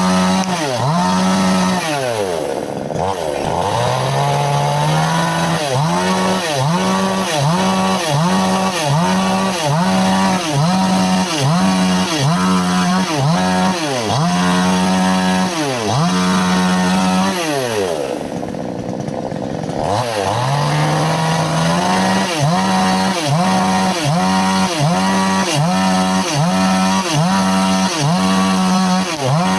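Chainsaw at full throttle cutting wood, its engine note dipping about once a second under load. Twice it drops back almost to idle and then revs up again.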